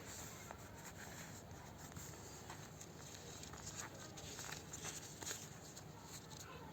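Paper rustling and crinkling: a sheet of origami paper being handled and folded by hand, with faint irregular crackles.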